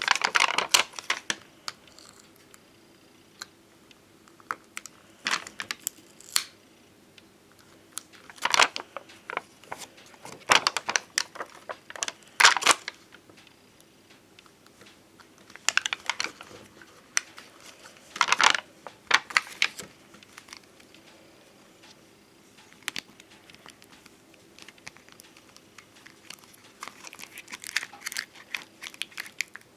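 Stickers and their plastic-coated sheets being handled and peeled: short crinkling, peeling rustles a few seconds apart, with quiet gaps between.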